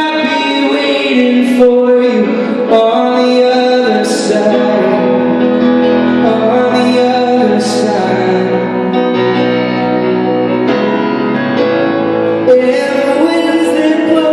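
Live pop song performance: a singer over piano and band accompaniment.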